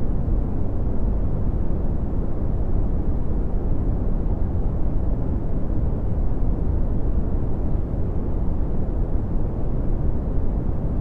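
Red (Brownian) noise: a steady, deep rumbling hiss, strongest in the bass and fading toward the treble, unchanging throughout.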